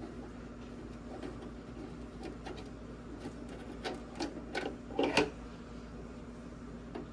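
Hand tools working on a plastic headlight housing while its Torx screws are taken out: light irregular ticks and clicks, then a few louder sharp clicks and knocks about four to five seconds in. A steady low hum sits underneath.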